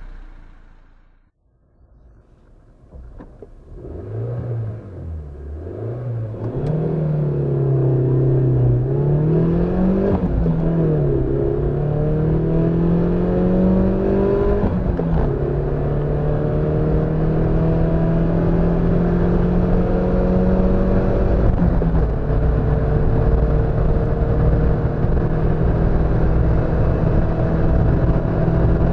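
Suzuki Wagon R+ 1.3-litre four-cylinder petrol engine accelerating hard through the manual gears: the engine note climbs, drops at each upshift about ten and fifteen seconds in, then holds a steady high note under load.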